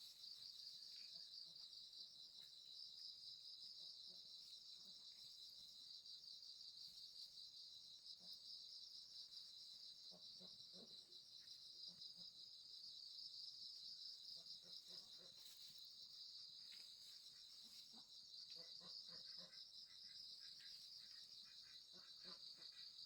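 Faint, steady high-pitched chorus of insects trilling without a break, with a few soft scattered knocks and rustles.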